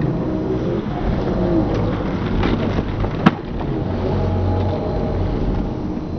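Skateboard wheels rolling on pavement with a steady rumble, and one sharp clack of the board a little past halfway.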